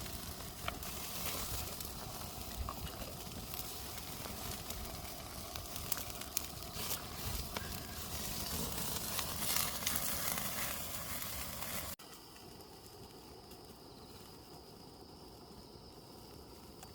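Whole chickens sizzling over a hot oak-charcoal fire: a dense crackle with many sharp pops. About twelve seconds in it cuts off suddenly to a much quieter steady background with a faint high hum.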